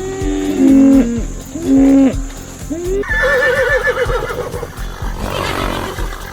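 Several short pitched animal calls, then, about three seconds in, a horse whinnying with a fast wavering pitch, over background music.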